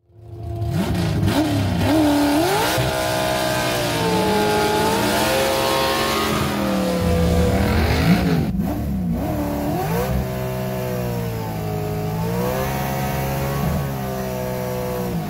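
Third-generation Camaro drag car's engine running and being revved, its pitch rising and falling again and again with a short break about two-thirds of the way through.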